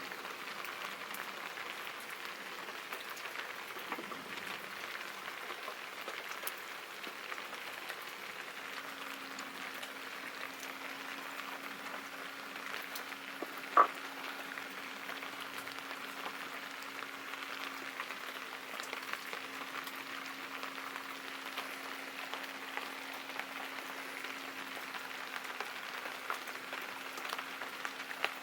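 Steady rain falling, a continuous patter of fine drops. One sharp click stands out about halfway through, and a faint low hum comes in about a third of the way in.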